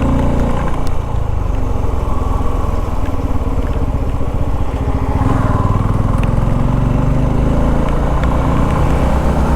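Motorcycle engine running while the bike is ridden. The engine note drops about half a second in and picks up again about halfway through.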